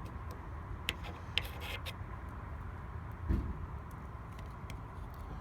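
Small metal parts of an opened mortise lock being handled: a few light clicks and scrapes in the first two seconds and a dull bump about three seconds in, over a steady low background rumble.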